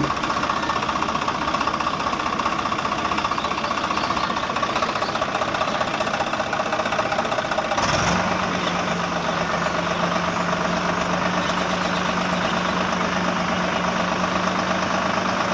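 Tractor engine running steadily. About eight seconds in, a steady low hum joins it and continues.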